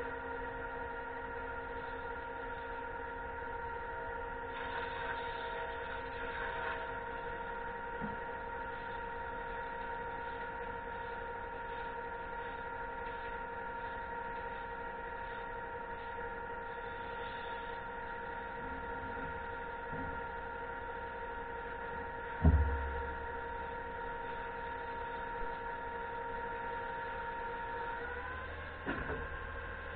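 Concrete pump truck's engine and hydraulic pump running steadily with a constant hum, stepping up slightly in pitch near the end. One loud thump about two-thirds of the way in.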